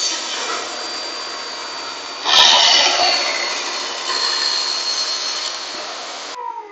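Table saw cutting a wooden board: a loud, steady saw noise that surges about two seconds in as the blade bites deeper into the wood. It cuts off near the end, leaving a faint falling whine.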